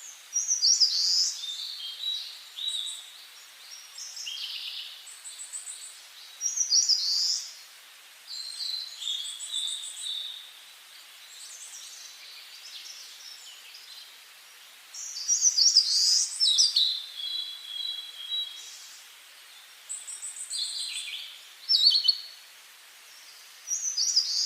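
Songbirds singing in the forest: short, high-pitched, varied song phrases come every few seconds, with the loudest phrases about a second in, around seven seconds in, around fifteen seconds in and near the end, over a faint steady hush.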